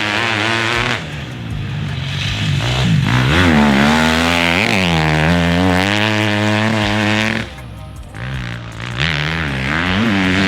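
2021 Husqvarna FC250's single-cylinder four-stroke engine revving on the track, its pitch rising and falling again and again. It backs off about seven and a half seconds in, then picks up again about a second later.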